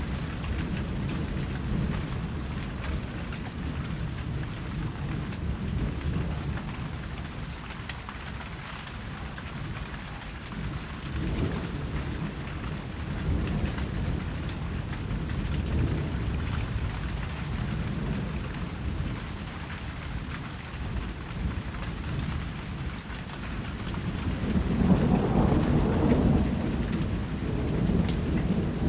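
Steady rain falling, with low rolls of thunder rumbling through it. The biggest roll swells up about 24 seconds in and fades over a few seconds.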